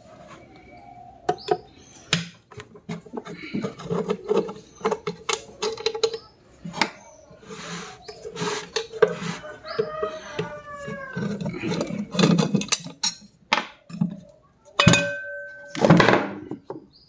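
Metal tools and ceiling-fan parts clinking and knocking as the nuts on the fan's bottom cover are undone and the cover comes off. A few short metallic ringing tones come near the end.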